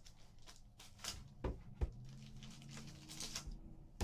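Trading-card pack being opened and its cards handled: light rustling and small clicks, with two soft thumps a little after a second in.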